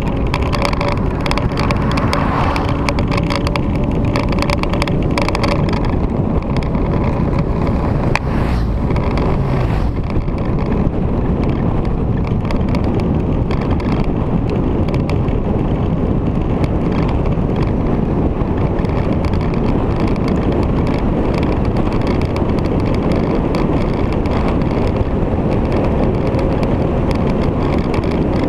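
Victory V-twin motorcycle under way, a steady rush of wind over the microphone mixed with the engine and riding noise.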